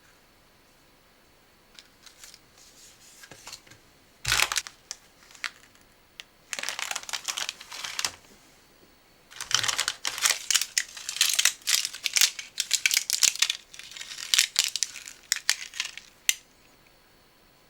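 Plastic snack packaging being handled and opened, crinkling and tearing: a sudden sharp noise about four seconds in, a short bout of crinkling, then a long stretch of dense crinkling before it goes quiet near the end.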